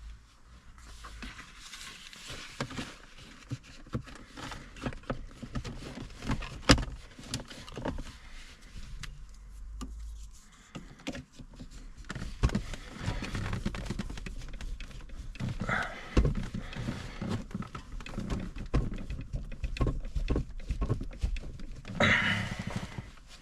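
Handling noise of the BMW E46's leatherette handbrake boot and console trim being fitted back over the lever: rustling with scattered clicks and knocks, the sharpest knocks about seven and sixteen seconds in.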